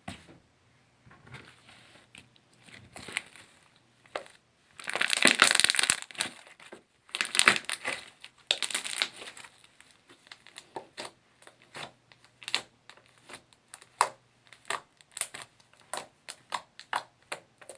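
Slime being squished by hand: a few longer, louder squelching bursts about five and eight seconds in, then a run of small sharp pops and clicks.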